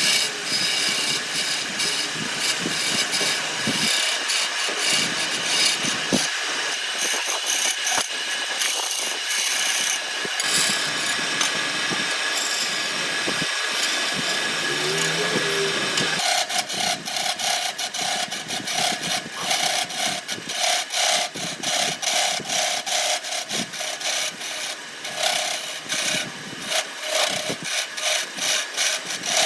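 A power tool working wood, with a steady rasping, scraping noise. About halfway through the sound changes to an uneven pulsing, with a steady hum under it.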